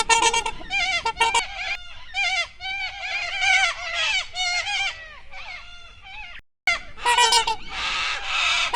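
A flock of geese honking, many overlapping calls. The sound drops out briefly about six and a half seconds in, then louder honking resumes.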